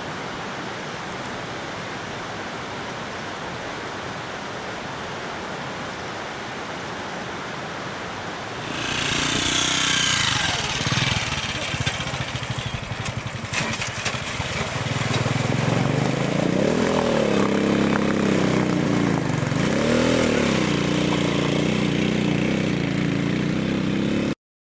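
Steady rush of a waterfall for about nine seconds, then a motor vehicle's engine running, its pitch rising and falling, until the sound cuts off abruptly near the end.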